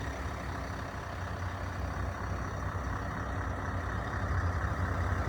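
Scania V8 diesel truck engine running at a steady idle through an exhaust with a diffuser, a low even rumble that grows slightly louder toward the end.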